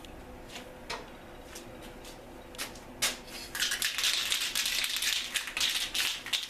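A few sharp clicks, then from about halfway in, an aerosol can of VHT Hemi Orange engine enamel hissing in short, uneven bursts as a light tack coat goes onto a bare engine block.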